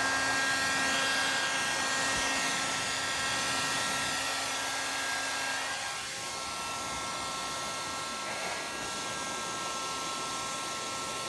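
Hair dryer blowing steadily with a whining tone. About six seconds in, its low hum stops and it gets a little quieter.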